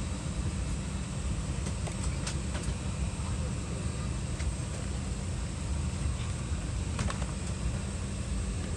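Steady low rumble and hiss of an Airbus A320 cabin before takeoff, with a few faint clicks.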